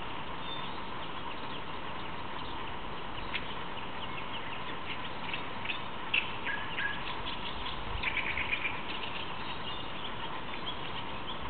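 Wild birds chirping and calling: scattered short high notes, with a denser run of chirps about eight seconds in, over a steady faint hum.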